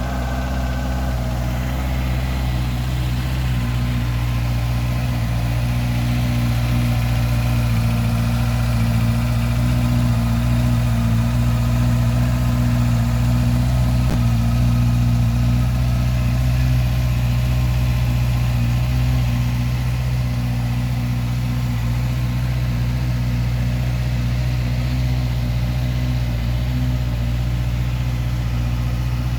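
2017 Honda CBR650F's 649cc inline-four engine idling steadily just after start-up, with no revving.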